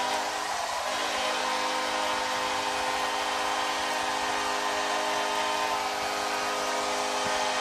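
Hockey arena crowd cheering a goal, with a steady multi-note goal horn held throughout.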